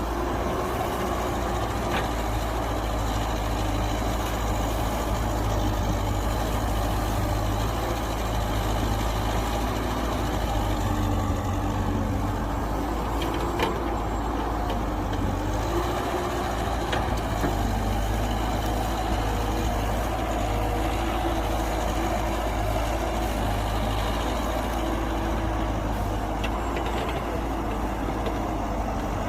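Heavy earthmoving machinery running: bulldozer and dump truck engines with a steady low rumble and a few faint clicks.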